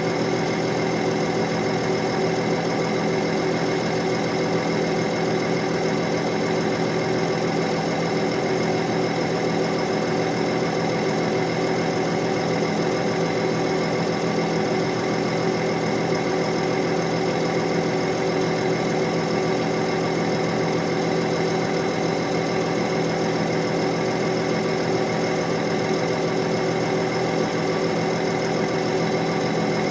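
Heavy diesel engine running at one steady speed, an even drone that never changes pitch or level.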